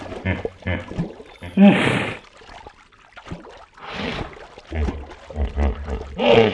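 Hippopotamus at the water's surface making a series of separate snorts, breathy blows and low grunting rumbles, with a little water sound.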